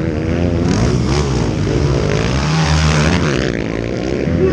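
Dirt-bike engines revving as the motorcycles race, their pitch rising and falling with the throttle.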